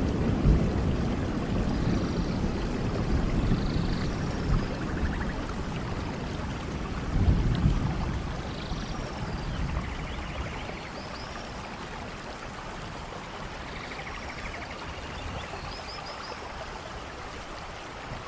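Rain falling steadily in a rainforest, with low thunder rumbling near the start and again about seven seconds in, the whole storm gradually dying away. Faint bird chirps and short trills sound over the rain.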